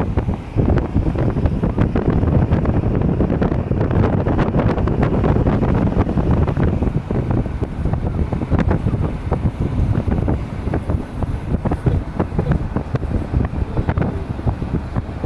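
Wind buffeting the microphone over the low rumble of a car driving, with frequent crackles and pops from the gusts.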